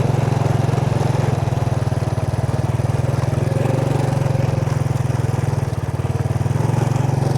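Vehicle engine running steadily, with a fast even pulse and no change in speed.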